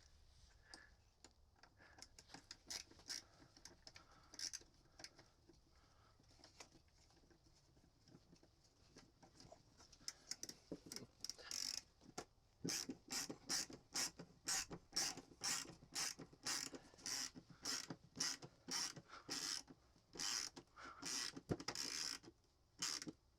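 Scattered handling clicks, then from about halfway a hand tool ratcheting in even strokes, about two a second, as a screw or nut is turned in.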